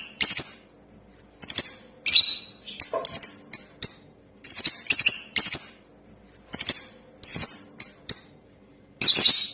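Lovebird calling in rapid clusters of shrill, high chirps, each cluster lasting a second or so with short pauses between, a little over half a dozen clusters in all.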